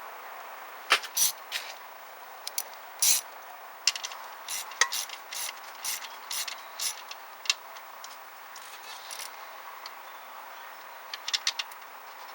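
Hand tools and metal parts clinking and clanking against each other while an alternator is fitted and its bolts are started, in scattered sharp knocks with a quick run of clicks near the end.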